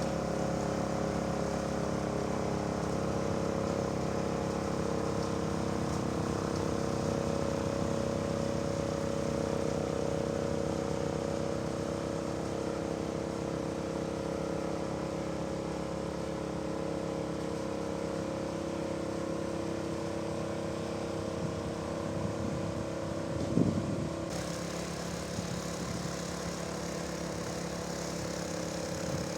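Yanmar Je-80HE snowblower's engine running steadily on its replacement carburettor, with one short knock about 23 seconds in.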